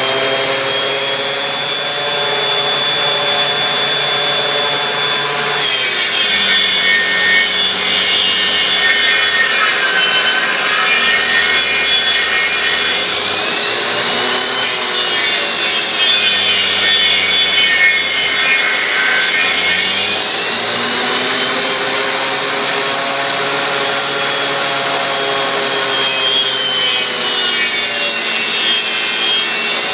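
Homemade copy lathe cutting a spinning firewood blank: a motor whine over wood-cutting noise. Twice through the middle the pitch sags as the motor slows under the cutting load, then climbs back.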